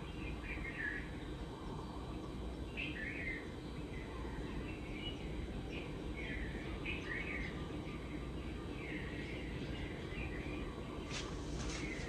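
Birds chirping in short repeated calls over a steady low hum, the 50-inch Casablanca Delta II ceiling fan running. A few sharp clicks come near the end.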